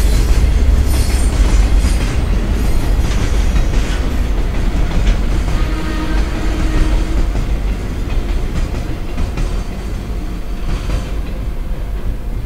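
Loaded Koki container flat cars of a long freight train rolling past over jointed track. The wheels give a rhythmic clickety-clack at the rail joints over a low rumble, and the sound fades as the tail of the train goes by near the end.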